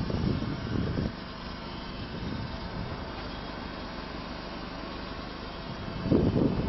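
Supercharged engine of a Mercedes-Benz W124 cabriolet (230 Kompressor) running steadily at idle, heard from outside the car. Louder irregular rumbles come in the first second and again near the end.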